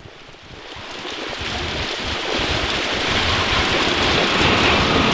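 Heavy rain pouring down, a steady rushing hiss that swells over the first couple of seconds and then holds.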